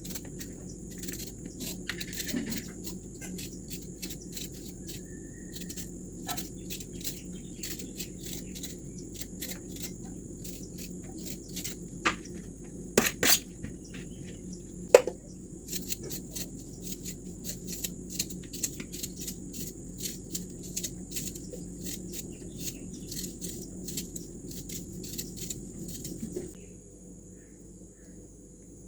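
Insects shrilling steadily at a high pitch, with many short clicks and knocks, a few sharp ones about halfway through. A low background rumble drops away near the end.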